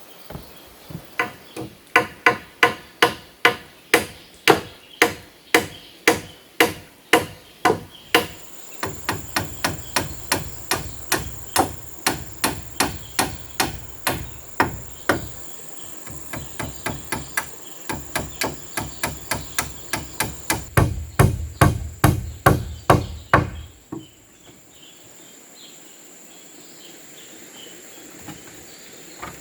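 A hammer striking over and over at a steady pace of about two blows a second, each blow ringing briefly, as when driving nails into wood; the hammering stops a little after two-thirds of the way through. A high, steady insect drone comes in about a third of the way through and carries on after the hammering ends.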